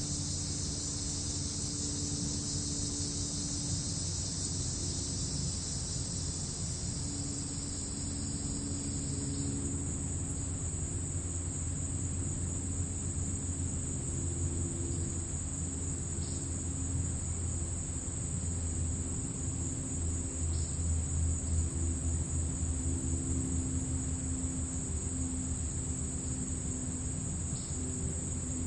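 Crickets chirping in a steady, dense high-pitched chorus; a second, lower-pitched layer of insect sound drops out about nine seconds in. A low steady rumble with a faint hum runs underneath.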